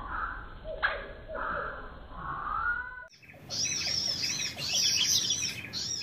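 Small birds chirping and calling, with repeated short notes and gliding calls and a sharp click just under a second in. About three seconds in the sound changes to a higher-pitched run of rapid chirps.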